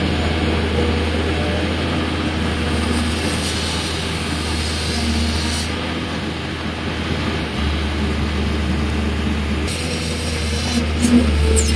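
Excavator's diesel engine running steadily, a low rumble, over an even hiss.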